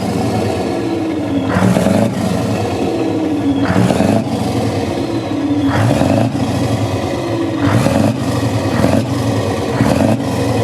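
Side-piped Scania V8 truck engine being revved over and over, a blip roughly every two seconds over a steady idle.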